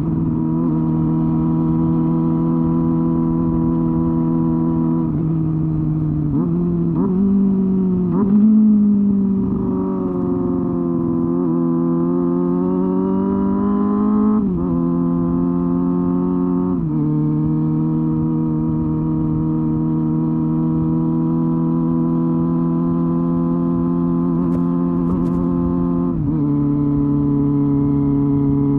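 Honda Hornet 250 motorcycle's four-cylinder engine and exhaust running under way. The note holds steady, dips and wavers for a couple of seconds, rises smoothly for about four seconds, then steps down sharply in pitch three times.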